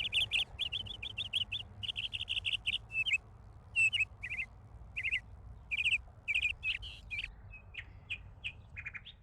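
Songbird chirping in fast runs of repeated notes, then in separate chirps and short phrases, over a low steady background rumble.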